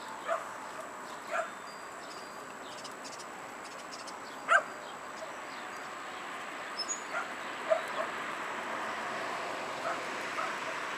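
A dog barking and yipping in short, scattered barks, the loudest about four and a half seconds in, over a steady background hiss.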